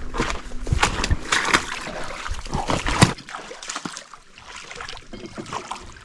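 Lake water splashing and sloshing against a floating dock, mixed with scattered knocks and clatter. It is busiest in the first three seconds, has a sharp knock about three seconds in, and then grows quieter.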